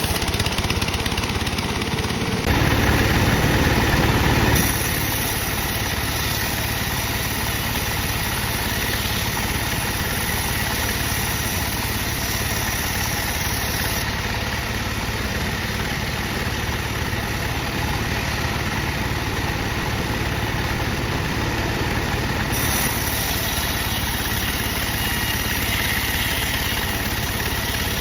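Sawmill bandsaw machinery running with a steady engine-like drone. It gets louder for about two seconds near the start.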